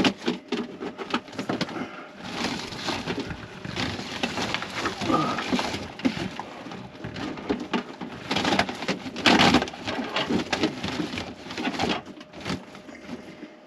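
Irregular scraping and rustling as wiring and a hose are pushed and pulled through a tight space, with a louder scrape about nine seconds in.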